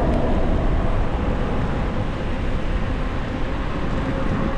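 Steady wind noise and road rumble from a moving e-bike.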